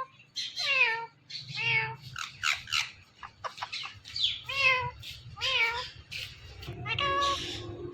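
Indian ringneck parakeet vocalising in its talking voice: about a dozen short, pitched calls in quick succession, each bending up and down in pitch.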